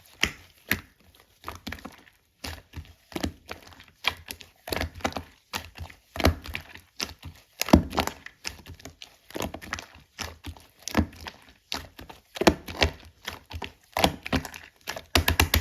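Orange two-layer slime being pressed, folded and stretched by hand, giving an irregular run of sticky clicks and pops, a few of them louder.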